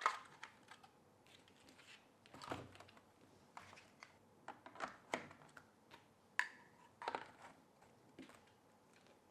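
Hard plastic parts of a cordless handheld vacuum's charging base and tool holder being fitted together: faint, irregular clicks, taps and knocks, with a sharper click about six and a half seconds in.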